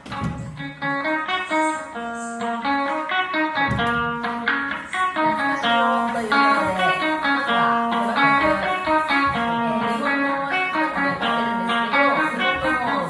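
Live band music starting up: plucked strings picking quick runs of notes over lower bass notes, with no singing.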